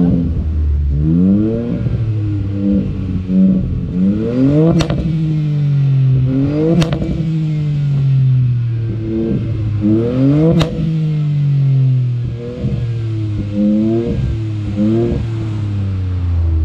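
Ford Fiesta ST-Line's engine revved in a series of quick blips through a Milltek cat-back exhaust, the pitch climbing and falling each time. There are three sharp pops on the overrun as the revs drop, about five, seven and eleven seconds in.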